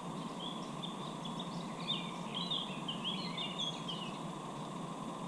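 A small songbird twittering, a quick run of short high chirps for about four seconds, over steady background noise with a constant hum.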